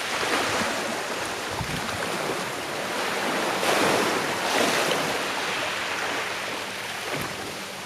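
Gentle sea waves washing onto the shore, a steady rushing wash that swells about halfway through and then eases.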